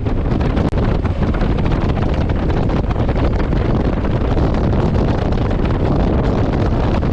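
Wind rushing over the microphone of a GoPro on a Honda CRF1100 Africa Twin being ridden, a steady loud rumble with a brief dip just under a second in.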